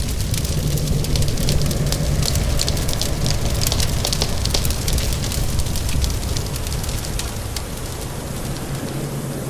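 Wood fire crackling with frequent sharp pops over steady rain and a low rumble; the crackles thin out after about six seconds.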